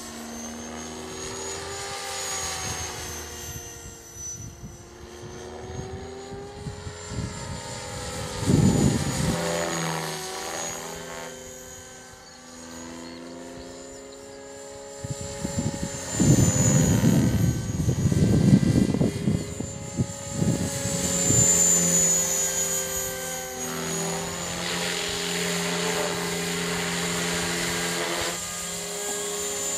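CopterX 500 RC helicopter flying fast: a steady rotor buzz with a thin high whine, both sliding up and down in pitch as it passes and changes speed. Wind gusts buffet the microphone with loud rumbling, once about eight seconds in and again for several seconds in the second half.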